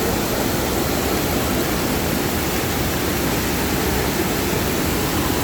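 Heavy rain and floodwater rushing along a road, an unbroken steady noise with no let-up.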